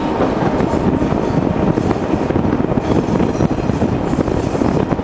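Passenger train running along the track, heard from on board at the carriage window: a steady, loud rumble of wheels and carriage, with wind on the microphone.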